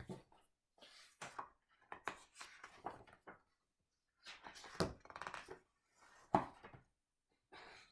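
Handling noise from a hardcover picture book being opened and its pages turned: irregular light knocks and rustles with short silences between, the busiest stretch about five seconds in and a sharp tap just after six.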